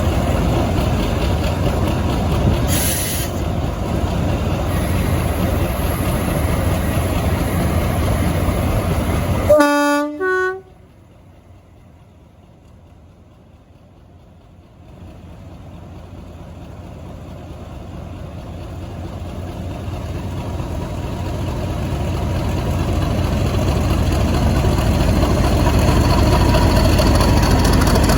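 Heritage diesel locomotive running with a loud rumble, then a two-tone horn sounds about ten seconds in: a lower note, then a higher one. The sound drops away suddenly, and a diesel train's rumble builds steadily to the end.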